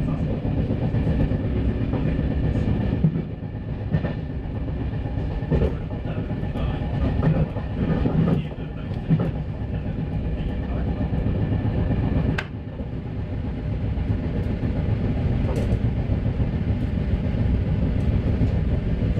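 RER B electric multiple-unit train running at speed, heard from inside the carriage. There is a steady low rumble of wheels on rails, with scattered clicks and knocks from the track and one sharper knock about twelve seconds in.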